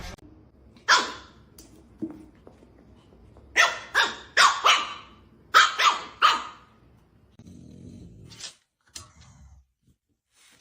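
A dog barking: one bark about a second in, then two quick runs of several barks in the middle.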